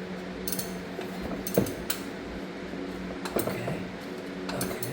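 Engine being turned over by hand with a socket wrench on the crankshaft bolt: scattered metallic clicks and clinks of the tool and the valve train snapping as valves open, over a steady hum. The engine turns fairly well and is not seized.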